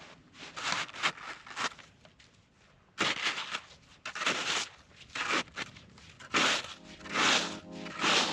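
Irregular crunching and scraping in packed snow, a series of short bursts. Background music with held notes comes in about two-thirds of the way through.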